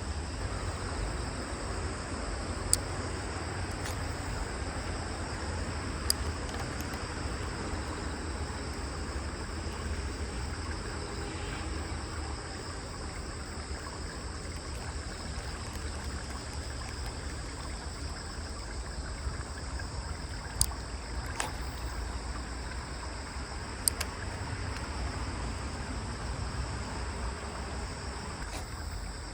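Outdoor waterside ambience: steady wind rumble and water lapping, under a thin steady high whine, with a few sharp clicks scattered through.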